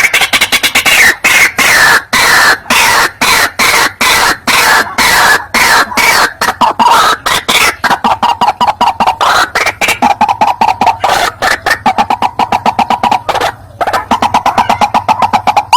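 White-breasted waterhen calling, a recorded lure call: a long, loud run of harsh croaking notes, several a second, that grows faster toward the end with a brief break near the end.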